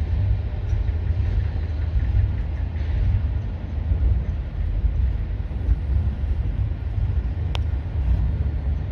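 Long freight train rolling slowly past and slowing, a steady low rumble, with one sharp click a little past seven seconds in.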